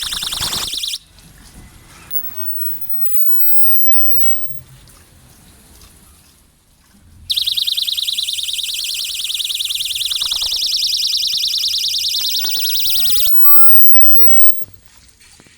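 Solar-powered ultrasonic animal repeller sounding its high-pitched, rapidly pulsing electronic alarm. It stops about a second in, then starts again about halfway through for roughly six seconds before cutting off suddenly.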